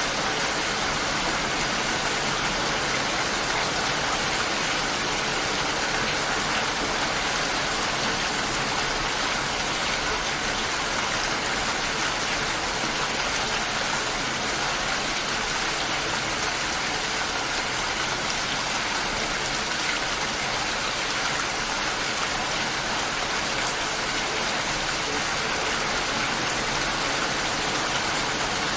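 Steady light rain falling, an even hiss of drops with no thunder and no music.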